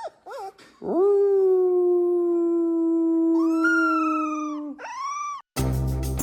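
Dog howling: a couple of short yelps, then one long steady howl of about four seconds and a short rising howl. Near the end a sudden loud burst of other sound cuts in.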